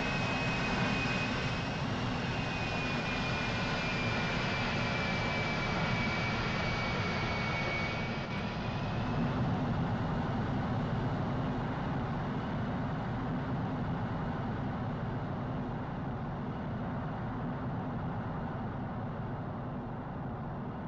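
Jet aircraft flying by with a steady rumble and a high turbine whine. The whine drifts slightly lower in pitch, and about a third of the way in it fades as the aircraft moves away, the sound growing duller and quieter.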